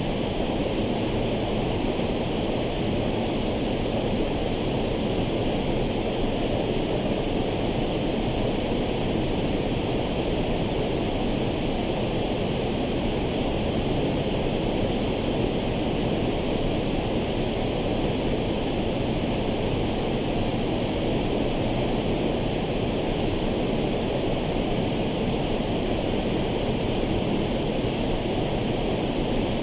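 Waterfall: a large volume of water pouring steadily over rock, an unbroken, even rush with no change in force.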